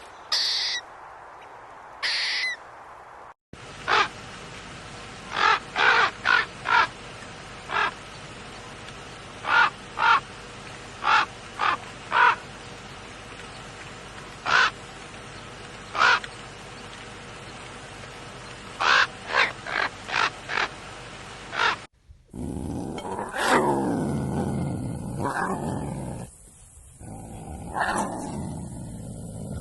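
A series of animal calls in turn: two short high calls, then many short, sharp bird-like calls repeated every second or so, then longer, lower calls falling in pitch for the last several seconds.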